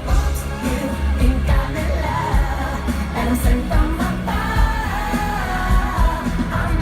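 Live pop concert heard from the audience: a singer's voice over loud, bass-heavy pop music with a steady pulsing beat.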